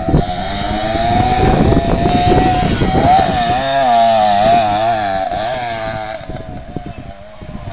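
Small motorbike engine running hard, its pitch rising and falling again and again as the throttle is worked, fading somewhat near the end.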